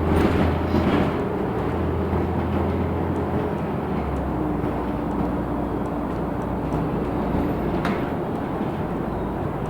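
Inside a LiAZ 6213.65 articulated city bus on the move: steady engine hum and road noise, with a few short rattles. The engine note steps down lower about four seconds in.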